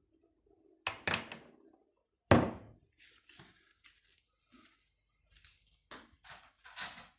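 A sharp knock a little over two seconds in, the loudest sound, with a short clatter before it and a string of softer knocks and rustles after, from tools and small parts being handled.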